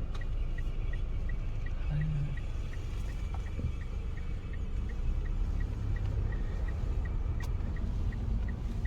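Car driving, heard from inside: a steady low road-and-engine rumble with an even, light ticking about three times a second.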